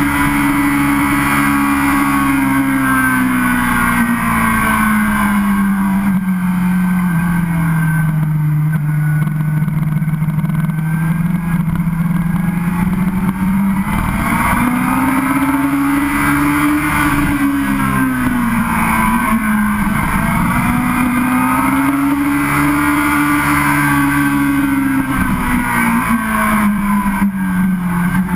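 Yamaha YZF-R6 inline-four engine heard from onboard the moving motorcycle. Its pitch falls slowly for about ten seconds, then climbs and falls twice more as the rider rolls the throttle on and off.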